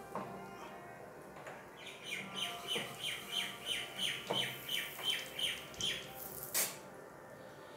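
A bird chirping a quick series of about a dozen short, falling notes, roughly three a second, with a few sharp clicks in between, the loudest near the end.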